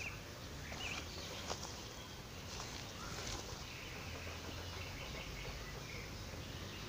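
Faint outdoor ambience with a few short bird chirps and scattered footstep crunches on a dirt path in the first few seconds.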